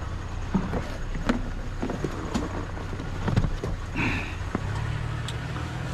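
Scattered knocks, clicks and rustles of trash being handled and sorted by hand, as oil filters are picked out of the pile, over a steady low hum.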